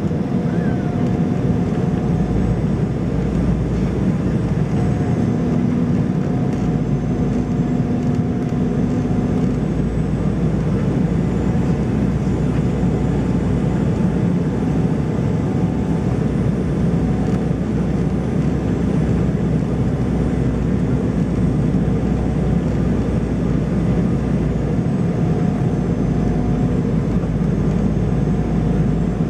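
Steady engine and airflow noise of an Embraer 190 airliner heard from inside the cabin in flight, with faint humming tones that come and go.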